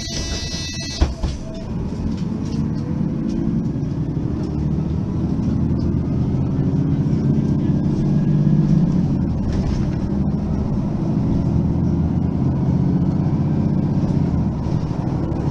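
Mercedes-Benz Citaro facelift city bus with a thump about a second in, then its diesel engine pulling away under load. A faint whine rises in pitch early on as the bus gathers speed, and the engine is loudest around eight to nine seconds before steadying.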